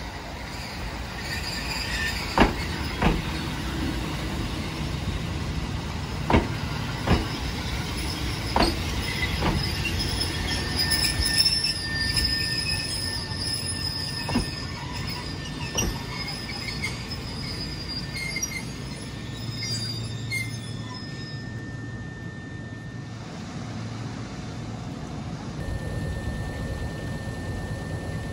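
Kotoden electric train running on jointed track: the wheels knock over the rail joints, often in pairs, with a high-pitched squeal of wheels on the rail near the middle. The rail noise eases off in the second half.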